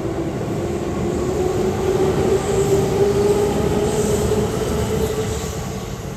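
Keihan 2400 series electric train running on the track: a heavy rumble with a tone that rises slowly in pitch, growing fainter near the end.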